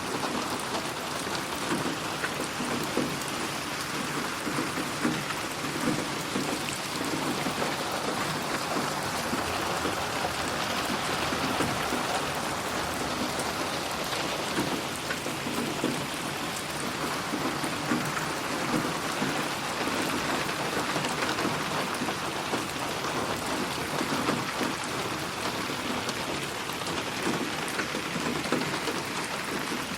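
Steady rain falling on a surface, a continuous hiss with an irregular patter of drops, mixed as 8D audio to move around the listener.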